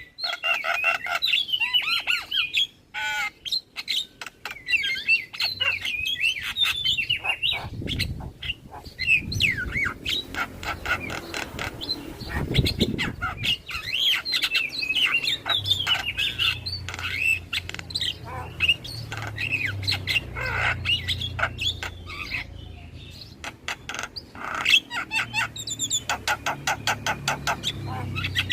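Javan myna (jalak kebo) singing a continuous, varied song of squawks, whistled notes and rapid clicking chatter.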